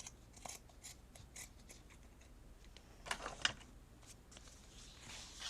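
Scissors snipping in short, irregular cuts, with a cluster of snips about three seconds in.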